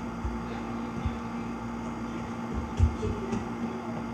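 A steady low hum in a small room, with four dull low thuds, the loudest a little under three seconds in.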